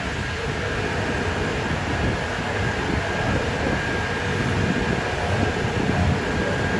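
Steady street rumble of idling engines and traffic, with a faint steady whine over it and wind fluttering on the microphone.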